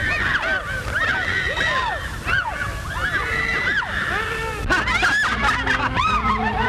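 Several voices crying out at once, overlapping yells that rise and fall quickly in pitch, with a fresh burst of them about five seconds in.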